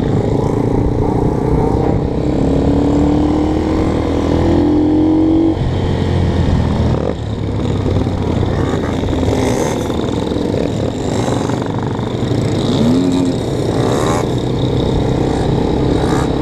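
Several motorcycle engines running on the road, with engine notes rising as bikes accelerate past.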